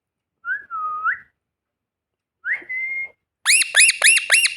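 Young green parrot calling: two clear whistled notes, then a quick run of about six sharp chirps near the end.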